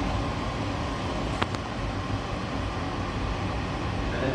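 Steady running rumble heard inside a moving WEST EXPRESS Ginga passenger car (a converted 117-series electric train), with one sharp click about a second and a half in.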